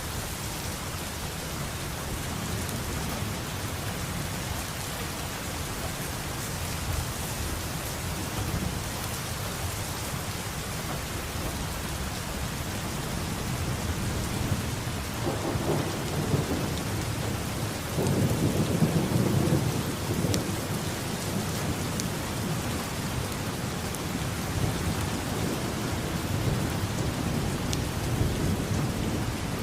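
Steady rain falling, with thunder rumbling low through it and swelling loudest about halfway through, in two rolls a couple of seconds apart.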